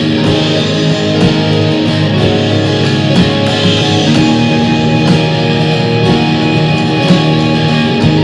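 Live instrumental jam on electric guitar, synth and drums: layered sustained, droning tones over a dense wash, with a sharp drum hit about every two seconds.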